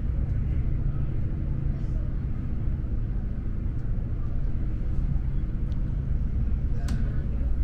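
Steady low rumble of a passenger train running along the track, heard from inside the carriage, with faint ticks and a brief click near the end.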